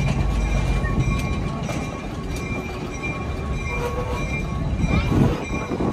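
Railroad passenger coaches rolling slowly past at close range: a steady low rumble of steel wheels on the rails, with a few faint, steady high squealing tones.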